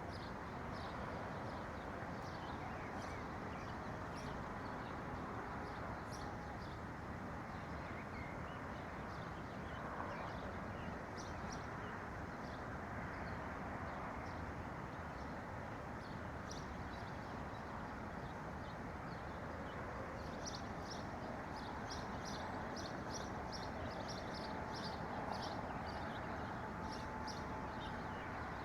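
Small songbirds chirping in short, high notes over a steady background rush; a quicker run of chirps comes about two-thirds of the way through.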